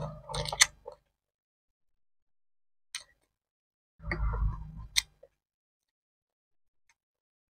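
Close-miked mouth sounds of a person chewing food: a few wet clicks and smacks in short bursts, the fullest one about four seconds in, with silent gaps between.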